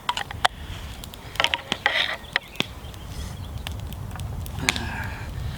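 Gear being handled: a few scattered sharp clicks and knocks, bunched near the start and again about two seconds in, over a steady low rumble.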